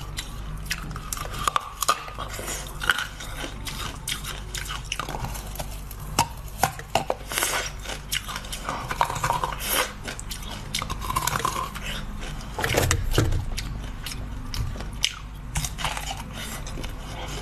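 Close-up biting and chewing of dark purple corn on the cob: kernels being bitten off the ear and chewed, with many small sharp irregular clicks.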